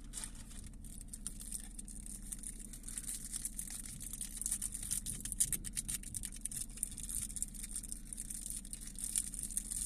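Crinkling of a plastic cracker packet and crackers being broken up, a dense run of small crackles throughout, over a steady low hum.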